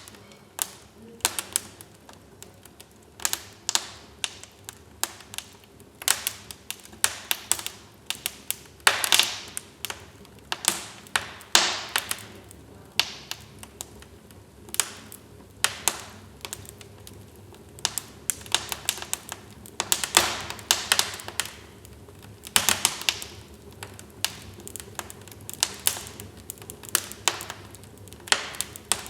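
Wood fire crackling in a fireplace: irregular sharp pops and snaps, clustered several a second at times, with a few longer hissing crackles, over a faint steady low background.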